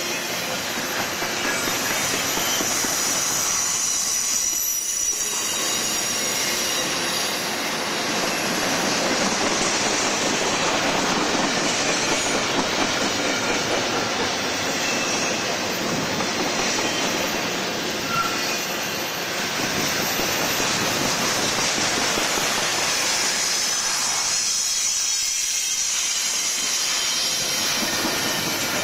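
Double-stack container train's well cars rolling past close by: a steady, loud rush of steel wheels on rail, with a thin high squeal of wheels running over it.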